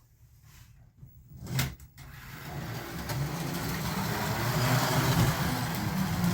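Carrera Digital 132 slot cars running around a plastic track: electric motor whine and the rattle of the cars in the slots. The sound starts about two seconds in and grows louder, after a couple of sharp clicks.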